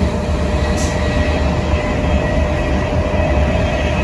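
Intercity train running, heard from inside the vestibule by the closed doors: a loud, steady rumble with a faint steady hum over it.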